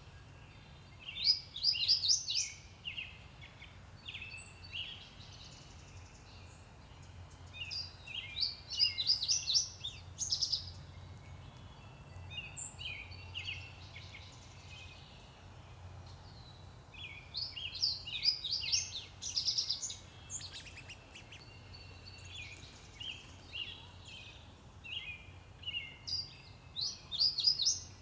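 Songbirds singing. One bird repeats a loud song phrase of a second or two about every eight seconds, with quieter calls from others in between, over a low steady rumble.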